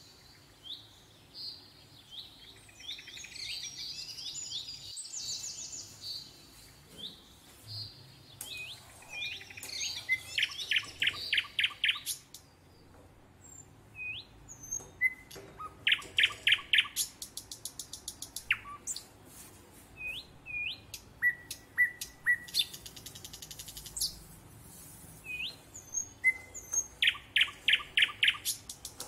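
Small birds chirping: several quick runs of rapid chirps, the loudest in the latter half, with single short slurred chirps between them.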